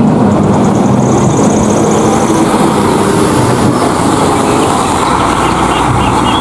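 A vehicle engine running steadily and loudly, a low hum under a constant hiss, starting and stopping abruptly.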